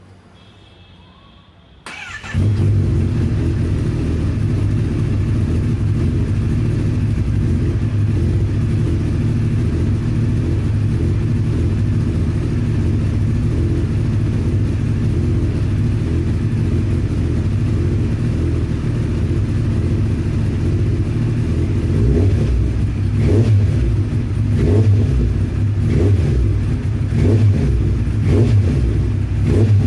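Motorcycle engine starting about two seconds in, then idling steadily. From about two-thirds of the way through, short revs of the throttle come one after another.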